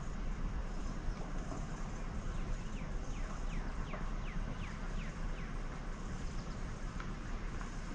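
Steady low rumble in the background, with a bird calling a quick run of about eight short downward chirps, about three a second, in the middle.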